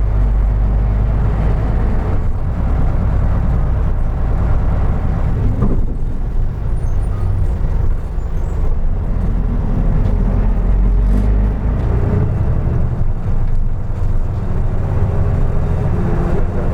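Isuzu Erga Mio city bus's diesel engine and drivetrain running while driving, heard from inside the cabin as a steady low rumble with road noise; the deep rumble eases about twelve seconds in.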